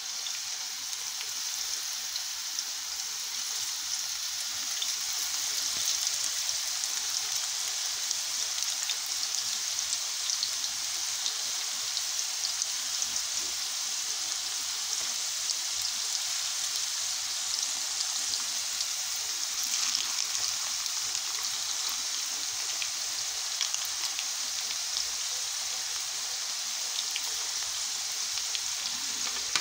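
Köfte and potato wedges sizzling in hot oil in a frying pan: a steady hiss full of small crackles and pops, growing a little louder over the first few seconds as more meat patties go into the oil.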